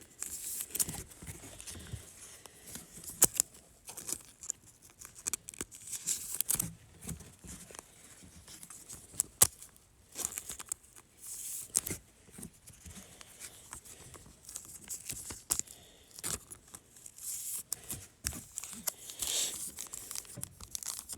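Foil wrapper of a trading card pack being torn open and crinkled, with short clicks and rustles of cards being handled in between.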